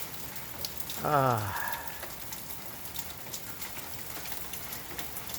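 Steady rain from a thunderstorm falling and pattering, with many small sharp ticks of individual drops striking surfaces. A man's short "ah" is heard about a second in.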